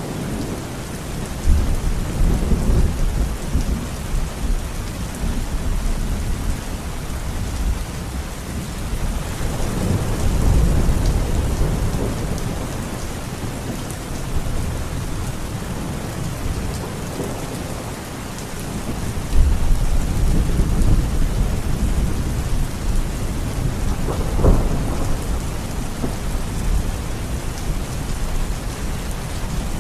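Steady heavy rain with thunder rumbling in three long low swells, and a sharper thunderclap about three quarters of the way through.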